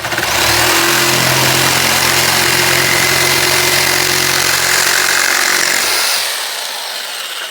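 Black & Decker electric jigsaw running and cutting through wood: a steady motor whine with the rasp of the blade. About six seconds in the motor note stops and the sound fades away.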